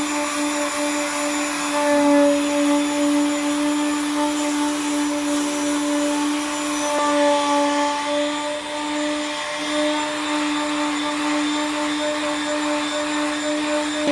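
An electric power tool running steadily at a constant high speed, a steady motor whine over a dense rushing hiss.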